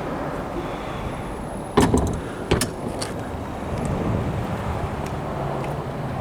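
Two sharp clunks less than a second apart, over a steady low background hum.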